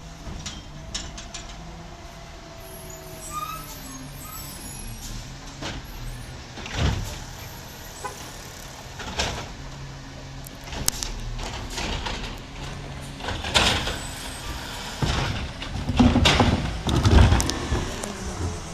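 Garbage truck engine running steadily, with a series of clanks and bangs over it, the loudest cluster a few seconds before the end.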